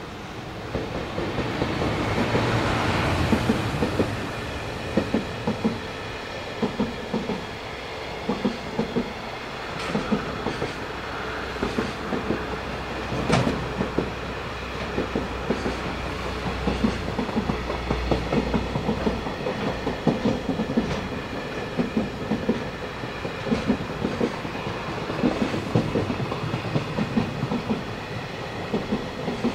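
JR Freight container train hauled by an EF210 electric locomotive passing, loudest in the first few seconds as the locomotive goes by. A long run of container wagons follows, their wheels clacking over rail joints in repeated groups, with one sharp crack about 13 seconds in.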